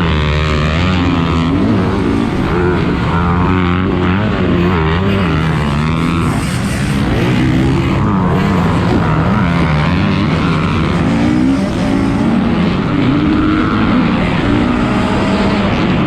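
Motocross dirt bike engine running hard, its pitch rising and falling as the throttle is opened and closed.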